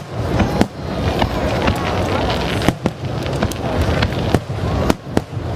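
Aerial fireworks bursting in quick succession: a string of sharp bangs and crackles, several a second, over the steady chatter of a large crowd.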